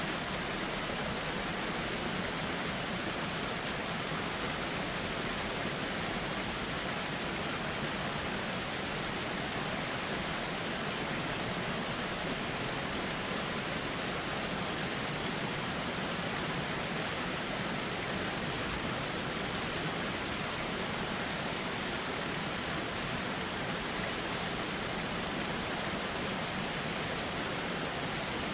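Flowing river water running steadily: an even rushing hiss with no breaks or changes.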